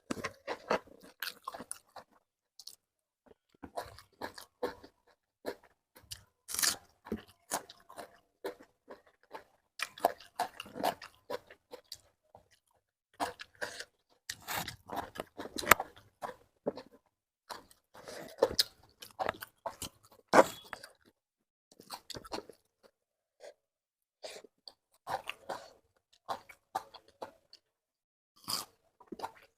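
A person chewing and biting food close to the microphone: irregular clusters of crisp crunches and wet mouth sounds with short pauses between bites.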